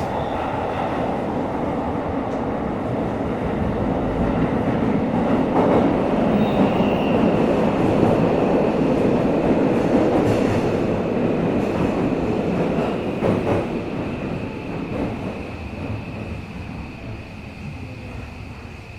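Tokyo Metro 17000 series subway train running, heard from inside the car: a heavy rumble of wheels on rail with a steady high whine and a few clacks. The noise builds to a peak around eight to ten seconds in, then falls away steadily as the train slows.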